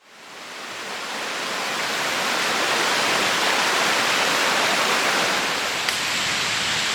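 Rushing river water: a steady rushing noise that fades in over the first two seconds, with one small click about six seconds in.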